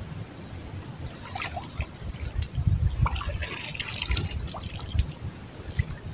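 Water splashing and trickling in irregular spurts, with scattered small knocks and low thumps.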